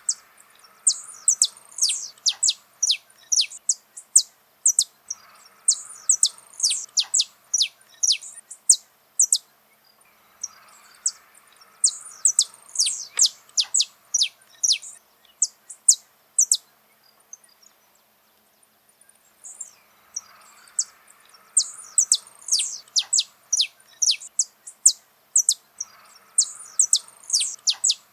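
Saffron finch (canário-da-terra) singing: bouts of rapid, high, sharply falling notes lasting a few seconds each, repeated with short pauses between them.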